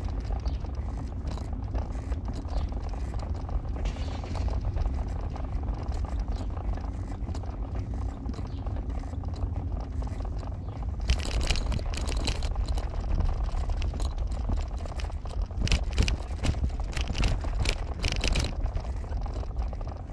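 Car driving: a steady low engine and road rumble, with bursts of rattling and clicking about halfway through and again near the end.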